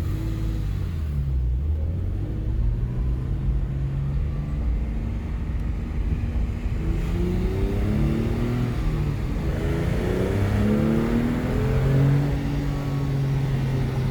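Porsche 997 911's flat-six engine pulling under hard acceleration. Its pitch climbs, drops at a gear change and climbs again.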